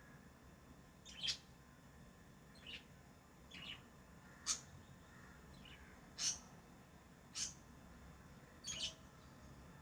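Pet lovebirds chirping: about seven short, sharp, high chirps, spaced unevenly, one every second or so.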